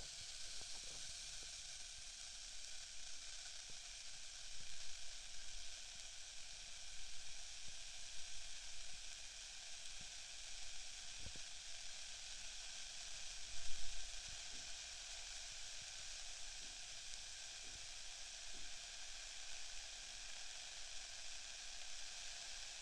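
Ear candle burning in the ear, heard close up as a steady soft rustling hiss with faint crackles, and one brief louder bump about 14 seconds in.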